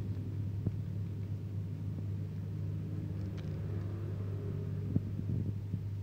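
Steady low mechanical hum, with a couple of short clicks, one under a second in and one near the end.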